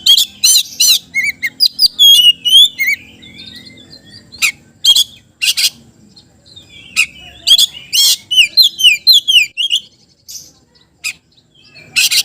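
Oriental magpie-robin (kacer) singing loudly: a varied run of sharp whistled notes and quick trills that glide up and down in pitch, in bursts with short pauses about six seconds in and again near the end.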